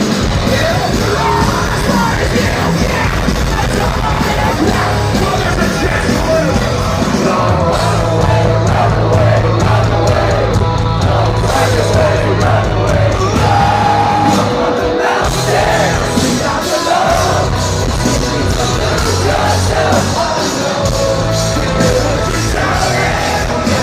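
Heavy rock music with yelled and sung vocals over sustained bass notes.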